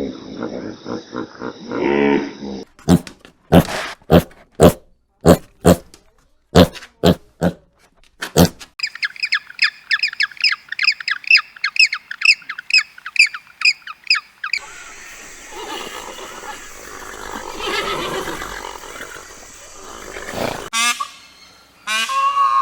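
A run of different animal sounds, one after another. First sharp knocks about twice a second, then a fast series of high chirps, then a noisy stretch, and near the end a quick rattling call.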